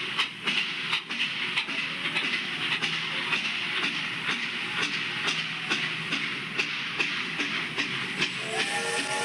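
Steam train sound effect played over a sound system: wheels clacking on the rails in a steady rhythm under a hiss of steam. Music comes in near the end.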